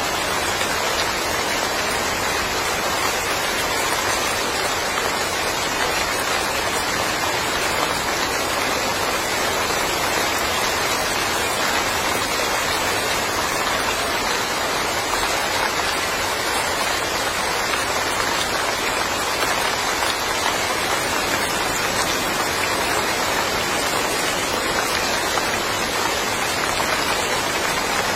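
Steady summer rain falling on a small countryside yard, an even, unbroken hiss of drops.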